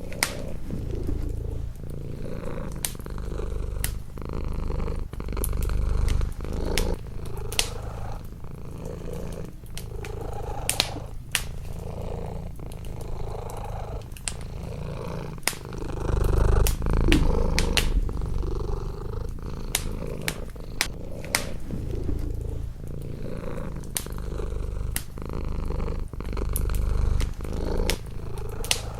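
A cat purring close up, in slow waves of rumble as it breathes in and out, with a wood fire crackling in sharp snaps throughout.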